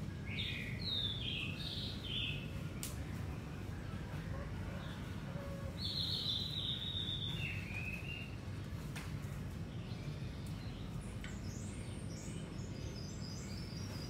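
Songbirds singing in short bouts of chirps: one near the start, another about six seconds in, and a higher run of notes stepping down in pitch near the end, over a steady low background noise.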